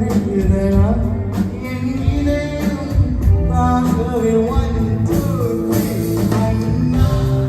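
A live band playing a rock-style song with drums, bass and guitar, and a singer singing over it.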